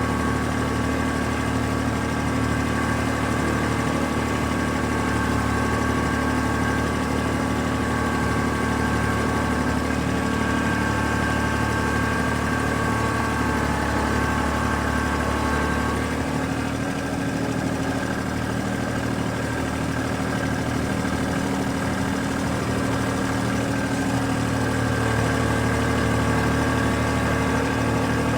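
An engine running steadily, its tone shifting about sixteen seconds in and settling back near the end.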